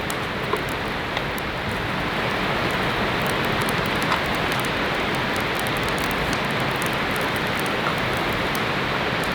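Heavy rain falling steadily on a tent, a dense even hiss with many small drop ticks, growing slightly louder about two seconds in.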